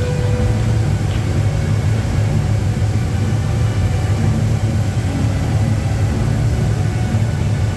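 Large waterfall: falling water giving a loud, steady, low rumble.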